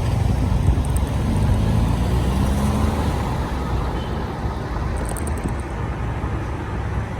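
Street traffic with car engines going by, under a heavy, steady low rumble from wind and road vibration on a bike-mounted microphone. An engine tone rises out of the traffic in the first few seconds, and faint light ticks come twice.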